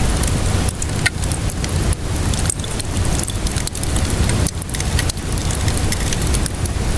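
Steady rainfall hiss with a low rumble beneath, mixed with the irregular snaps and pops of a crackling wood fire.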